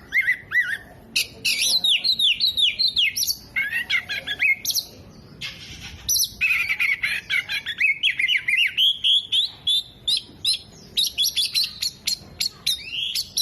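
Oriental magpie-robin (kacer) singing a fast, varied song of whistled phrases, trills and chirps, with a short pause about five seconds in.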